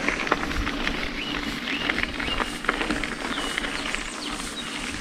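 Outdoor ambience: birds chirping in many short calls and quick slides in pitch over a steady background hiss.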